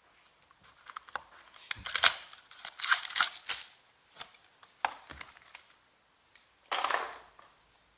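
Plastic wrapping on trading-card boxes being torn and crinkled in several irregular bursts, with a few sharp clicks about five seconds in.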